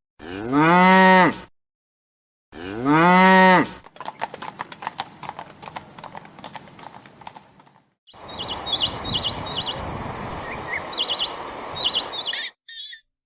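A cow mooing twice, each moo a little over a second long, rising then falling in pitch. After that comes a few seconds of rapid crackling clicks, then a noisy stretch with short high chirps, each part starting and stopping abruptly.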